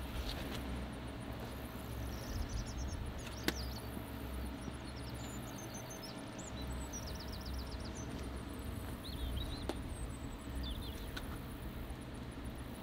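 Small birds chirping and trilling in short phrases over a steady low wind rumble on the microphone. A single sharp click comes about three and a half seconds in.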